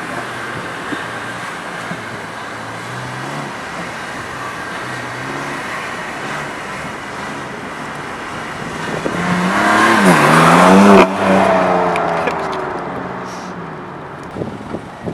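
Turbocharged four-cylinder exhaust of an Audi A4 B8 2.0 TFSI with the resonator deleted, running at low revs, then about nine seconds in accelerating hard past through a gear change. It gets loudest as it passes, drops off suddenly, then fades away.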